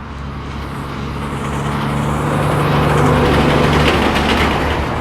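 A road vehicle passing by. Its tyre and engine noise swells to a peak about three seconds in, then fades, over a steady low engine hum.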